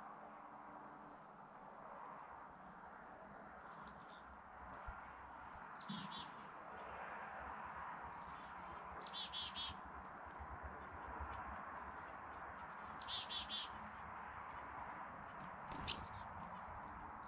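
Small birds chirping, with short high calls scattered through and a few quick runs of several notes, over a steady faint background noise.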